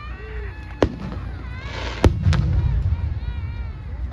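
Aerial fireworks shells bursting: two sharp bangs about a second apart, the second with a crackling shower and low rumble around it. Spectators' voices are heard near the start and again near the end.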